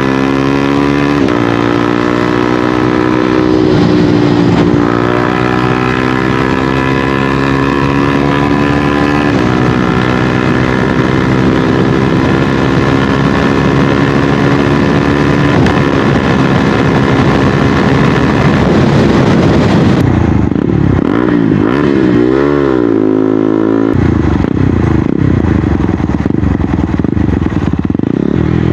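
2024 KTM 250 Duke's single-cylinder engine through an MSH G4 slip-on exhaust, accelerating hard through the gears: the pitch climbs, drops at each upshift about a second, four, nine and fifteen seconds in, and climbs again. About twenty seconds in it comes off the throttle, the revs rise and fall a few times, then settle to low steady revs.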